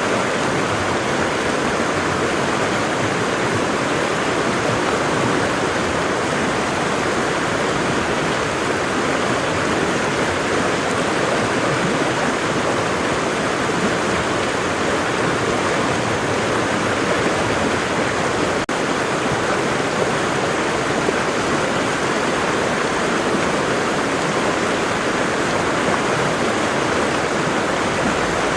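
Waterfall: water falling and rushing in a steady, unbroken roar of white-noise-like splashing.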